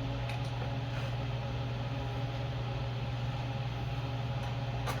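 A steady low mechanical hum, with a few faint light clicks of small parts being handled near the start and again near the end.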